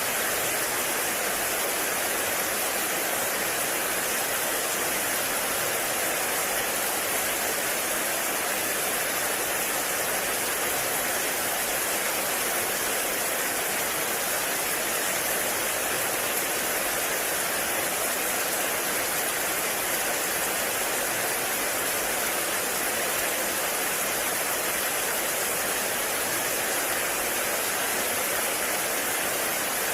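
Heavy rain falling steadily on a forest, a dense, even hiss that does not change.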